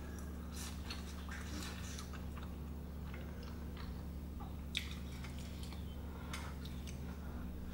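A person chewing soft, chewy Korean rice cakes (tteokbokki) close to the microphone: quiet mouth sounds and scattered small clicks, with one sharper click nearly five seconds in, over a steady low hum.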